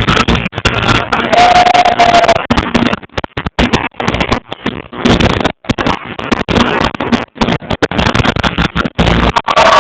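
Live concert music and a voice through a loud sound system, recorded on a phone and badly distorted, with the sound cutting out again and again.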